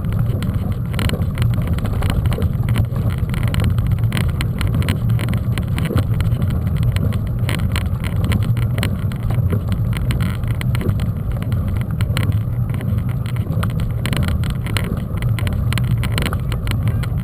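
Mountain bike rolling over a rough dirt trail: a steady low wind rumble on the camera's microphone, with constant irregular rattling and knocking from the bike over bumps.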